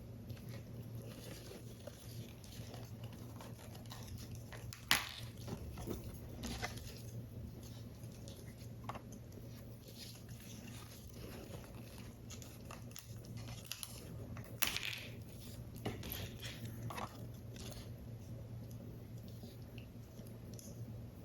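Hands handling and assembling card-paper model pieces: scattered light taps, clicks and paper rustles, with a sharp tap about five seconds in and a louder rustle around fifteen seconds, over a steady low hum.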